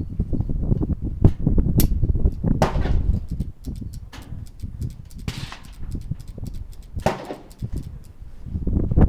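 Gunshots at a shooting range: several sharp reports, each of the strongest followed by a short echo, among many smaller clicks and knocks and a steady low rumble.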